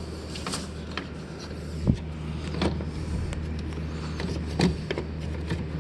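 Steady low hum of a ceiling air conditioning unit, with scattered clicks and knocks as its filters are handled and fitted back into place; the sharpest knock comes about two seconds in.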